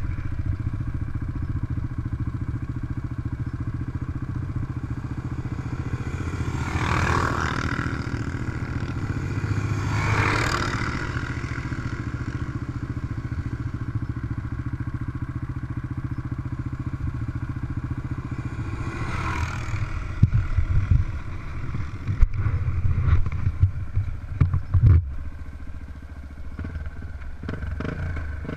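Trail motorcycle engine running steadily, with three brief swells of noise in the first twenty seconds. From about twenty seconds in, a run of irregular loud knocks and clatter lasts for about five seconds over the engine.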